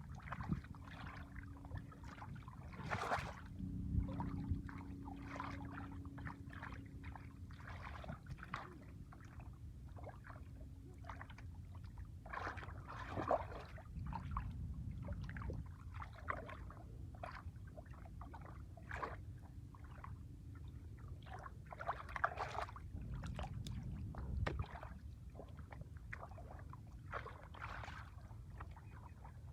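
Shallow muddy water splashing and sloshing in many short, irregular splashes over a low steady rumble, typical of fish being caught by hand in a drained pond.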